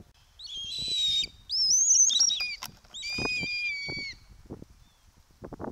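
Three high-pitched bird calls, each about a second long: a hoarse one, one that rises and then drops at its end, and a steady whistled note. Faint soft knocks fall between them.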